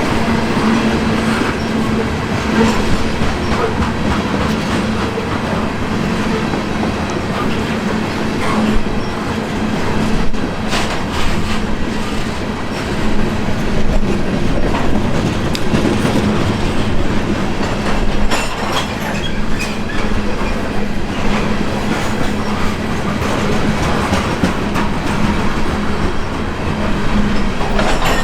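Freight train of covered grain hopper cars rolling past: steady rumble and a continuous hum, with wheels clicking over rail joints, a few sharper clacks now and then.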